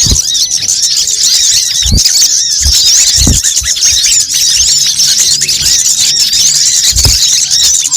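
Dense, continuous high-pitched chirping and twittering of many small songbirds layered over one another, a bird-lure recording of sunbird-type calls. A few short low thumps sound under it.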